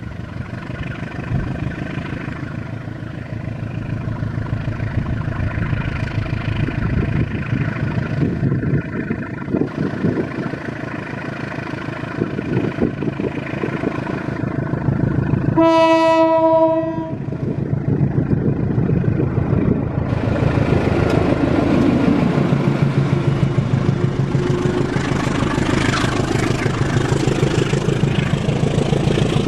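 Diesel locomotive of a passenger train running steadily as it approaches, then one horn blast of just over a second about halfway through. From there the train passes with a louder rumble and wheel noise.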